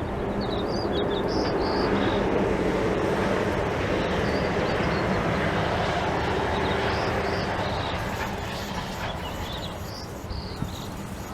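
Small birds chirping over the low rumble of a passing vehicle, which fades away over the last few seconds.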